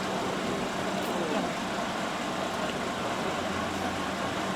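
A truck engine running steadily, with a low, even hum.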